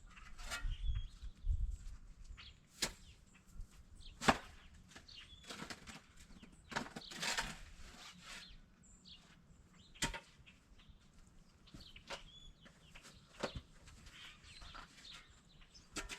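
Scattered sharp cracks and crunches of a brittle ice crust on deep snow, irregular and spread out, with a few faint high chirps between them.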